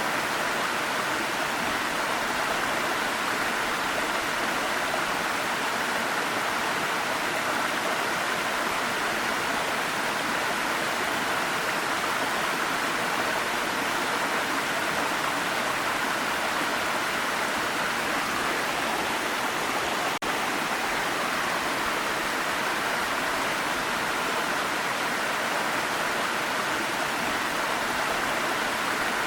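Waterfall water rushing steadily, with a momentary dip about twenty seconds in.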